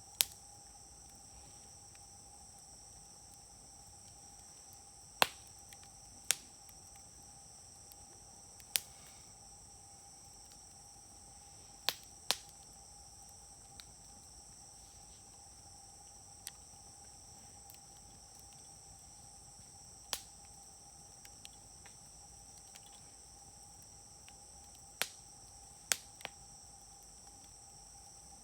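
Wood campfire crackling, with about ten sharp pops scattered through, the loudest about five seconds in and a close pair near twelve seconds. Insects trill steadily behind it in a high, even drone.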